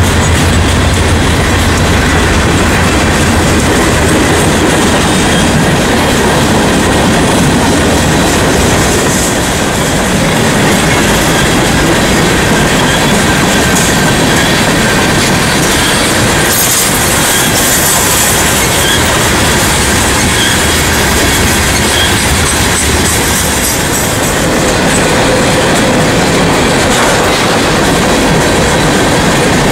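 Freight cars of a passing mixed train (tank cars, covered hoppers, boxcars) with steel wheels rolling on the rails at close range: a loud, steady rumble and clickety-clack over the rail joints, with faint high squeals from the wheels now and then.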